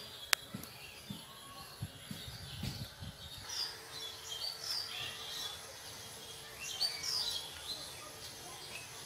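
Small birds chirping in short, high, quick calls through the second half, over a sharp click and a few soft low knocks in the first three seconds.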